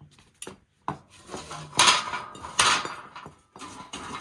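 Metal objects clanking and clinking as they are handled and fitted together: a run of sharp knocks, the loudest two about two seconds in, some ringing briefly.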